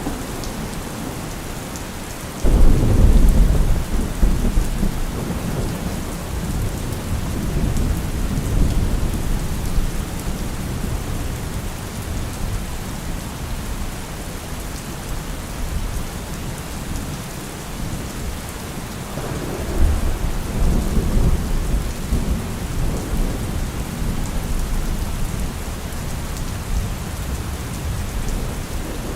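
Steady heavy rain with thunder rolling twice. A sudden loud crack about two and a half seconds in rumbles on for several seconds, and a second roll of thunder starts a little before twenty seconds in.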